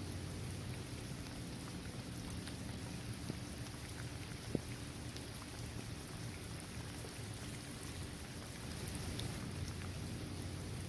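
Steady rain falling on a paved court, trees and grass, with scattered single drops ticking through it and one sharper drip about halfway.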